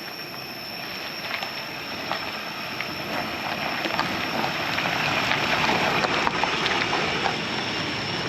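Raptor pickup truck driving over a rough dirt track: a steady rumble of tyres and suspension with scattered knocks and rattles, growing a little louder toward the middle.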